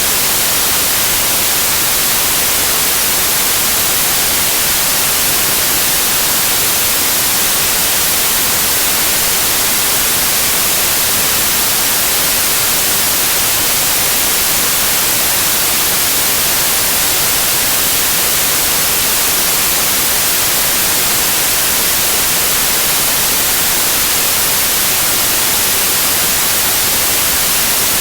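Steady white noise like TV static: an even, unbroken hiss, brightest in the treble.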